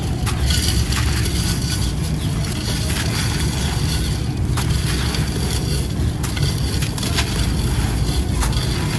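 Light grey gritty concrete being crumbled: a dense, continuous run of gritty crunching with many small crackles.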